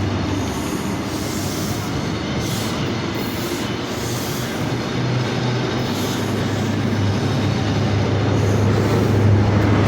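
Diesel train engine running at the platform with a steady low hum, getting louder near the end.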